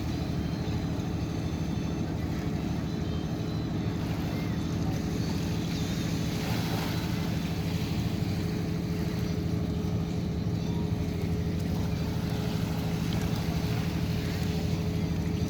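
Boat engine running steadily, a constant low drone with a steady hum.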